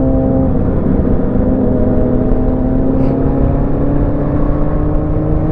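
Motorcycle engine running under way, its pitch climbing slowly as the bike gathers speed, with wind rushing past.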